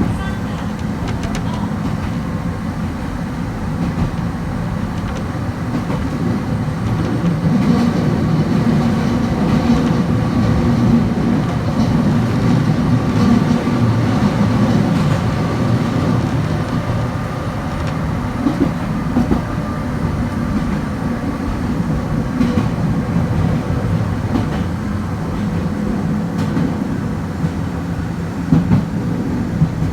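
Kobe Electric Railway train running along the track with a steady rumble and faint steady whine. A few sharp knocks come near the end.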